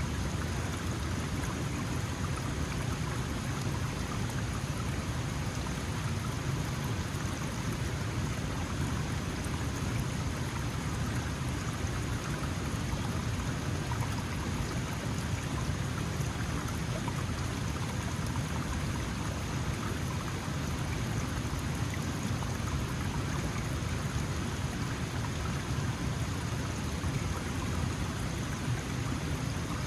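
Small mountain stream flowing over stones: a steady, even rush of water that does not change over the whole stretch.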